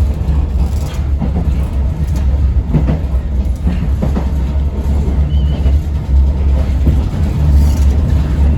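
Yoro Railway local electric train running along the line, heard from inside the car: a steady low rumble with a few faint knocks as the wheels pass over rail joints.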